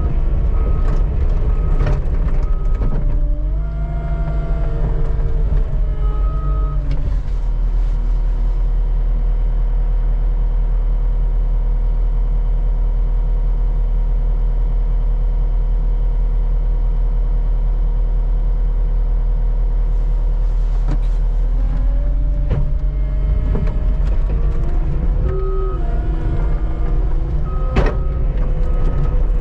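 Skid steer engine running steadily, its speed rising and falling a few times, with a back-up alarm beeping in short spells near the start and near the end, and occasional knocks.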